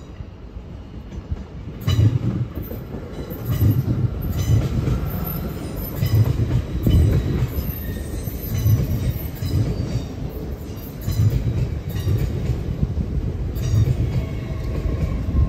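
Train running through the station at moderate speed. Its wheels knock over a rail joint in pairs of beats about every two and a half seconds over a steady rumble, growing louder about two seconds in.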